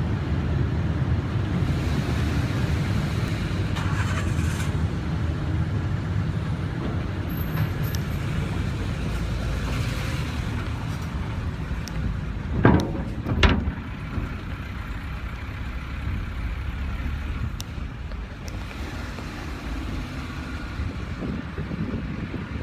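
Steady low engine rumble of a vehicle, with two loud clunks less than a second apart about halfway through.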